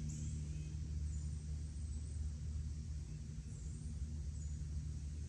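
Steady low outdoor rumble, with a few faint, brief high bird chirps scattered through it.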